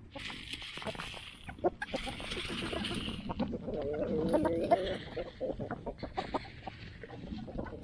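Chickens clucking, with about-one-second bursts of hissing that come and go four or five times, and scattered clicks and knocks.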